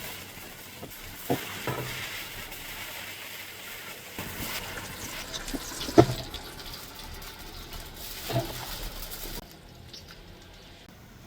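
Lamb sizzling and frying in a cast-iron pan over an open fire, a steady hiss broken by a few sharp knocks or crackles, the loudest about six seconds in. The sizzle cuts off suddenly about nine seconds in, leaving a much quieter background.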